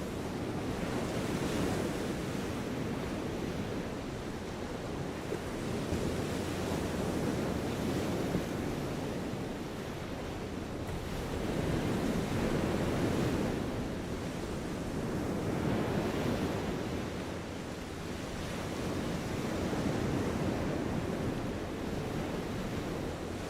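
Steady outdoor rushing noise, mostly low in pitch, that swells and eases every four to five seconds. It has no distinct events.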